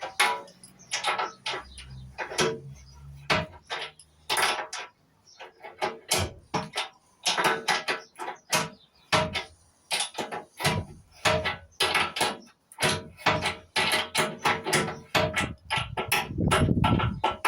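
Adjustable spanner working brass fittings off a radiator: a long run of irregular metal clanks and knocks, some of them ringing briefly.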